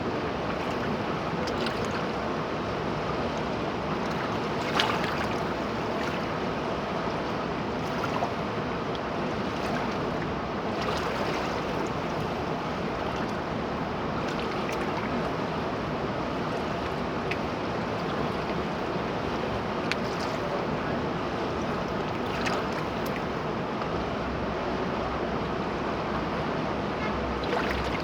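Steady rush of a river's flowing water, with a few faint brief clicks here and there.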